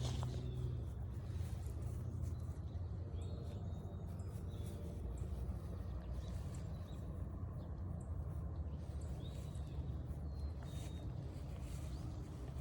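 Outdoor trail ambience: a steady low rumble, with faint short bird chirps now and then.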